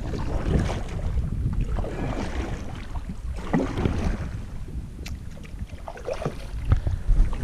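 Kayak paddle strokes swishing and splashing in the water, a few strokes spaced a second or two apart, over a steady low rumble.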